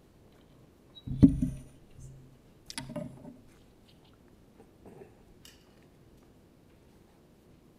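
Handling noise at a microphone: a loud thump about a second in, then softer knocks and rustles.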